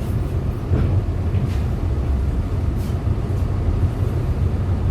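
2011 Hyundai Green City CNG city bus engine running with a steady low drone, heard from inside the cabin, with a few faint clicks and rattles.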